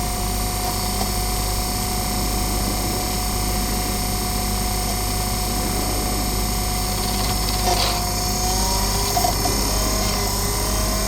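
Soundtrack of a DVD film playing from a VCR/DVD combo player: a steady mechanical drone, with a brief shift and some gliding tones about eight seconds in.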